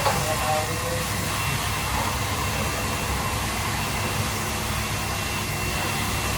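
Kitchen exhaust fan running: a steady rushing noise with a faint high whine.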